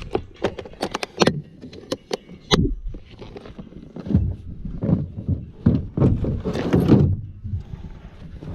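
Rummaging through a box of gear: a quick run of sharp clicks and rattles as objects are picked up and knocked together, then heavier bumps and thumps of handling.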